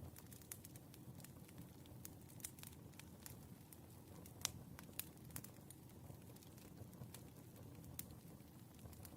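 Wood fire crackling softly, with irregular sharp pops and snaps over a low steady rumble. The sharpest pop comes about four and a half seconds in.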